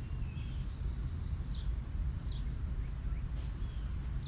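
Birds chirping: a few short, separate high chirps, over a steady low rumble.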